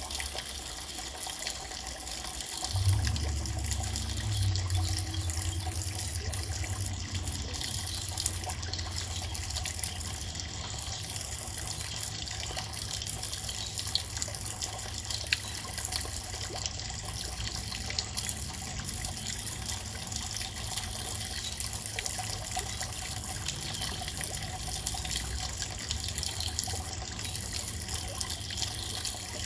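Steady rain with scattered small drip ticks. A low rumble comes in about three seconds in, strongest for a few seconds, then continues underneath.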